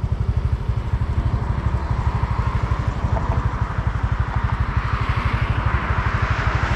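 A small engine running steadily with an even, rapid pulse. A hiss grows louder near the end.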